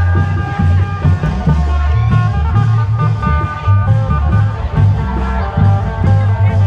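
Isan klong yao (long drum) band music: heavy, steady drum beats under a plucked-string melody.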